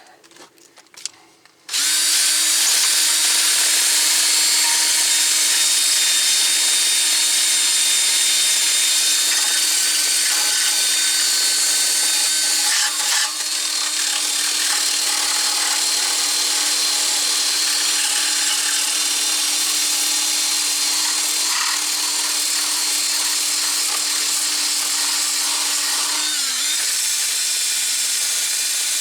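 A handheld power tool starts about two seconds in and runs steadily with a hum and a bright scouring noise, cleaning corrosion off the area where the wheel bearing seats. It dips briefly about halfway through, and its pitch sags for a moment near the end.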